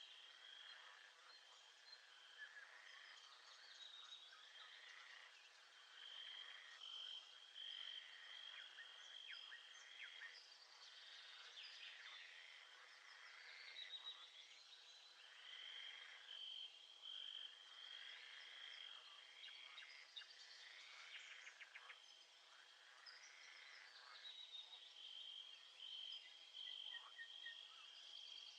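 Faint nature ambience of frogs calling in a chorus of short overlapping calls, over a high steady insect trill that drops out and returns several times.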